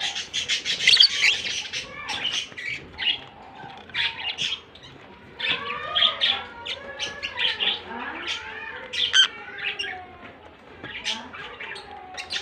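A pair of lovebirds chirping and chattering: a dense run of rapid, sharp high chirps, with lower warbling squawks in the middle.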